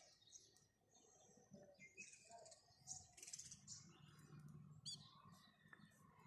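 House sparrows chirping faintly: a quick run of short chirps about two to three and a half seconds in, and another chirp near five seconds.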